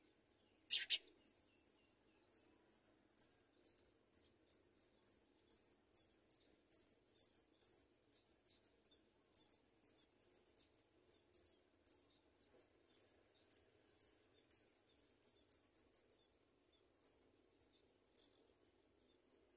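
House sparrow nestlings begging: a long, irregular run of faint, thin, very high cheeps, several a second, after one louder sharp chirp about a second in.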